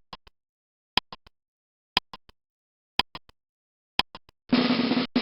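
Clock-tick sound effect: five ticks a second apart, each a sharp click followed by two fainter ones. About four and a half seconds in, a snare drum roll begins, typical of a countdown running out before an answer is revealed.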